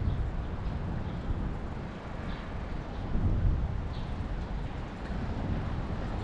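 City street sound heard from a moving bicycle: a steady low rumble of traffic and wind, swelling louder for a moment a little after three seconds in.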